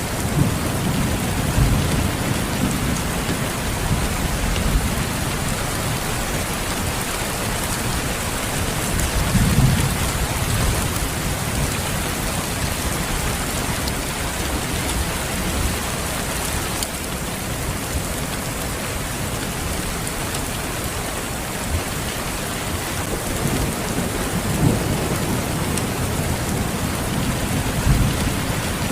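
Steady rain falling, with low rumbles of thunder swelling near the start, about ten seconds in, and again toward the end.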